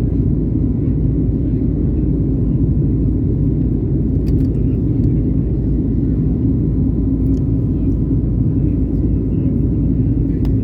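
Steady low rumble of an airliner's engines and airflow heard inside the cabin during takeoff, with a faint high hum above it and a few light ticks.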